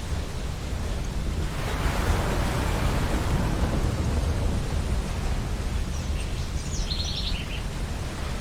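Ocean surf washing onto a beach, with a steady low rumble and a wave swelling up about two seconds in. A bird gives a short run of quick high chirps near the end.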